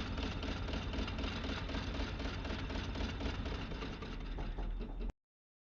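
A machine running steadily with a fast, even chatter, cutting off suddenly about five seconds in.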